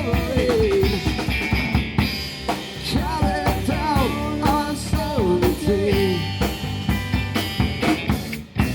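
Live band music driven by a drum kit, with bass drum and snare hits throughout. A melodic line slides up and down over the drums for the first six seconds, and the music drops out briefly just before the end.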